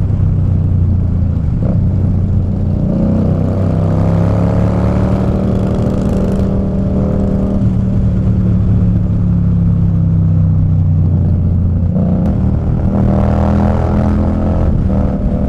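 Indian Scout Bobber's V-twin engine running under way, heard from the rider's position. Its pitch rises a little a few seconds in, holds steady, then shifts about twelve seconds in, as with a change of throttle or gear.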